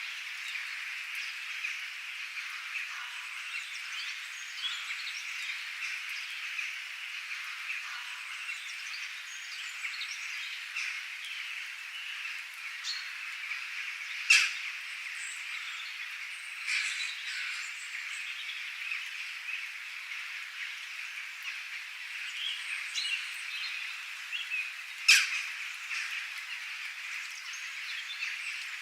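Birds chirping over a steady high-pitched chorus, with two loud sharp calls, one about 14 seconds in and one about 25 seconds in.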